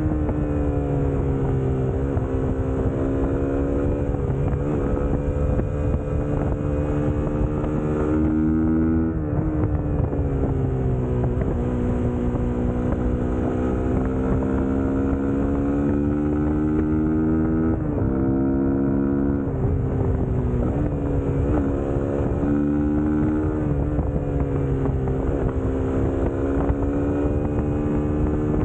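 Suzuki GSX-S150's single-cylinder four-stroke engine running continuously under way, its note slowly rising and falling with the throttle and broken by several quick dips in pitch.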